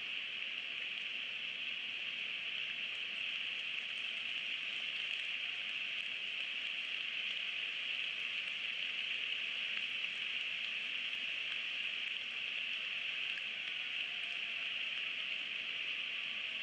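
Steady rain falling on a bald eagle nest and the trees around it, a constant hiss with a few faint drop ticks, picked up by the nest camera's microphone.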